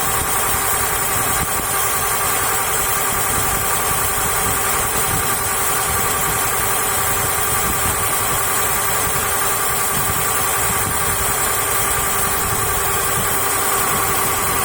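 Boat engine driving a NICO 3:1 marine reduction gearbox, running steadily at constant speed with a steady mechanical whine.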